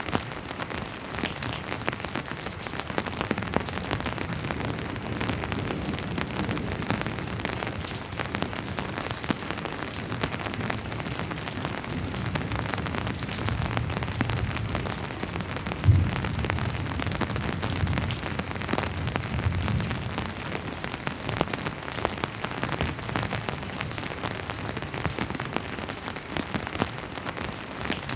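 Steady rain falling on a hard surface, with many individual drops ticking. A low rumble of distant thunder rolls through the middle, with one sudden thud about halfway.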